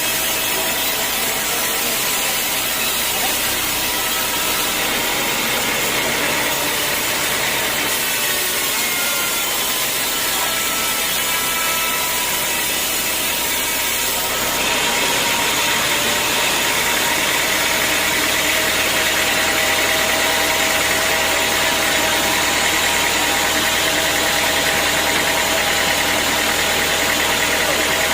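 Sawmill machinery running steadily, with a constant hum of motor tones; it grows louder and brighter about halfway through.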